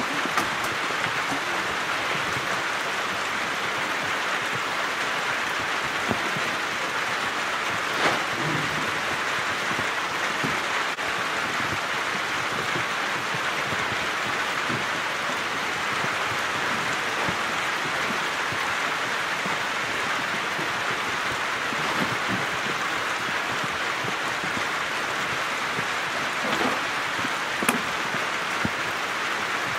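Steady rain, with a few light knocks and rustles from tent poles and nylon fabric being handled, the clearest about eight seconds in and a few more near the end.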